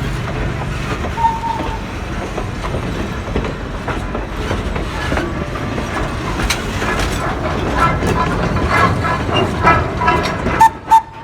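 Passenger train rolling past with a steady rumble, its wheels clicking over the rail joints, the clicks coming thick in the last few seconds. Two short, louder sounds come near the end.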